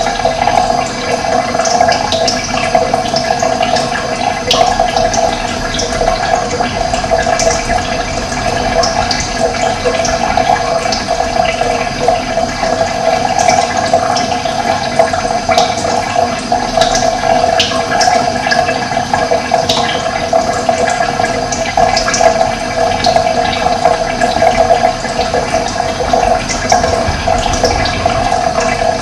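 Running water flowing steadily, with many brief bird chirps scattered over it.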